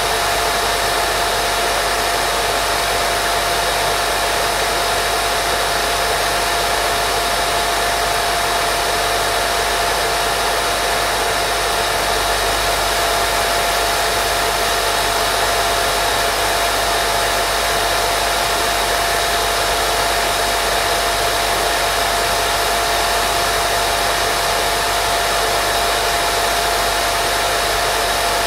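Steady baby-sleep white noise: an even, unbroken hiss with a constant mid-pitched tone running through it.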